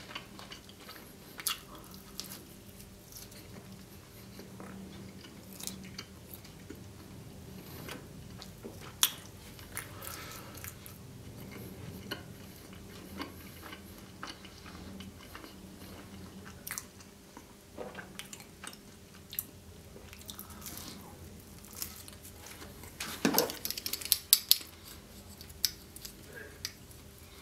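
Close-miked chewing and biting of a thin-crust dessert pizza topped with Nutella, white chocolate, strawberries and marshmallow, with scattered wet mouth clicks. A burst of louder clicks comes near the end. A faint steady low hum runs underneath.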